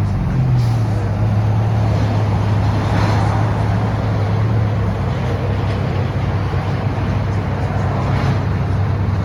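Muffler-deleted vehicle exhaust droning steadily at a constant low pitch while cruising, after the pitch eases down slightly at the start.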